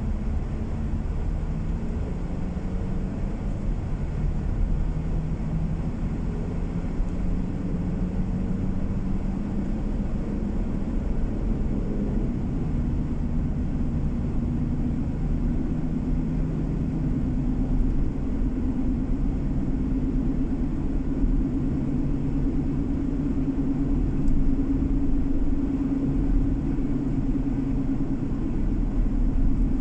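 Car engine hum and tyre/road noise heard inside the moving car. The engine note drifts and rises slowly in pitch over the second half as the car gathers speed.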